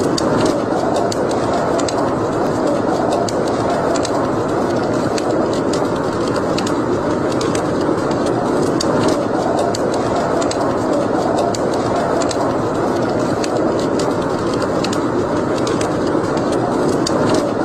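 Wood fire burning in a fireplace: a steady, even rush of flame with frequent sharp crackles and pops from the burning logs, scattered irregularly.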